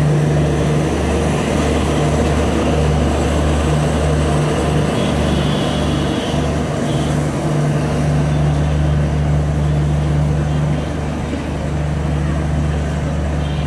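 LHB passenger coaches of a Bangladesh Railway train rolling past a station platform, giving a steady low rumble and hum. A brief higher squeal comes about five seconds in and again near the end.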